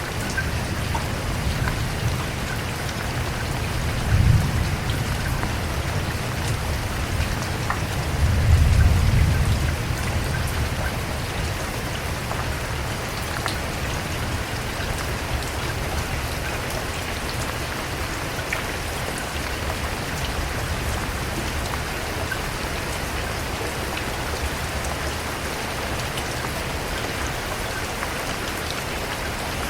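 Steady rain falling, with scattered individual drops. Two low rumbles of thunder: a short one about four seconds in and a longer one around eight to ten seconds.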